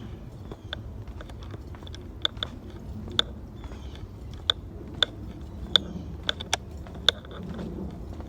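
Footsteps crunching on a dry woodland trail: about ten sharp, uneven crunches and clicks over a steady low rumble.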